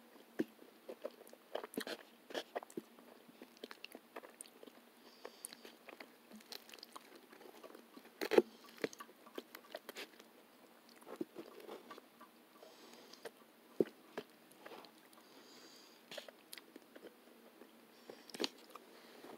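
A person chewing food, with scattered light clicks of a metal fork picking at food on a paper plate; the loudest click comes about eight seconds in.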